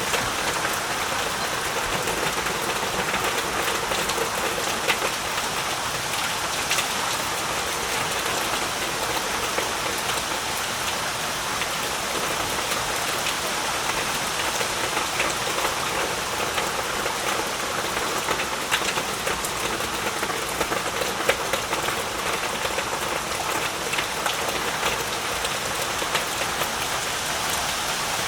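Heavy rain falling steadily, a dense hiss with the patter of individual drops striking surfaces.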